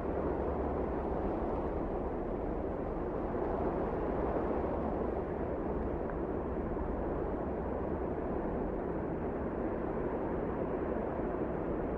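Blizzard wind blowing steadily, a low, even rushing with no single gust standing out.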